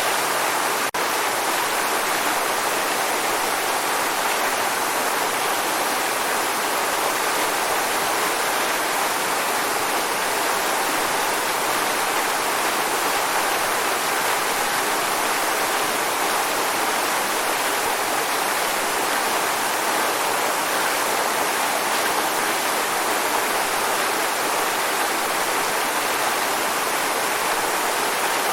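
Waterfall: water falling and splashing in a steady, even rush, with a brief dip in level about a second in.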